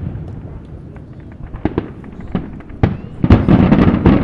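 Fireworks going off: a few scattered sharp bangs, then a loud, rapid run of crackling pops about three seconds in.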